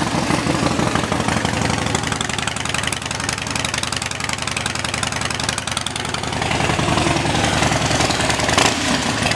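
2012 Harley-Davidson Dyna Street Bob's 103-cubic-inch V-twin idling through Vance & Hines drag pipes, loud and steady, a little louder in the last few seconds.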